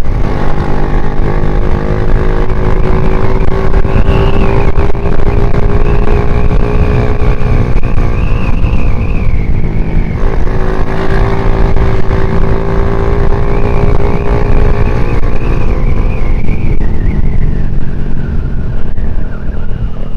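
Yamaha underbone motorcycle's four-stroke single-cylinder engine running under way, its pitch climbing steadily, dropping abruptly about halfway through as at a gear change, then climbing again and easing off near the end, with heavy wind rumble on the microphone. The rider says the clutch plates are worn out.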